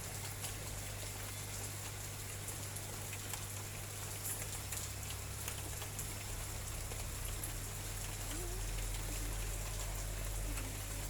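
Light drizzle pattering, with many small scattered drop ticks over a steady hiss, and a low steady hum underneath.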